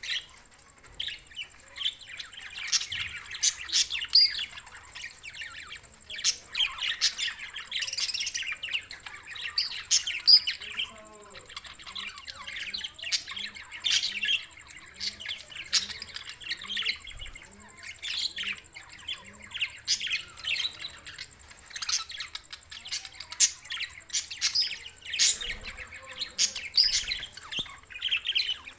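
Budgerigars chattering in a steady stream of rapid, high chirps, broken by short pauses.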